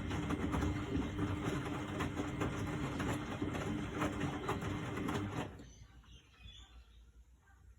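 1999 Miele Novotronic W828 washing machine running with a steady hum and a rapid rattle and gurgle of water, which stops abruptly about five and a half seconds in.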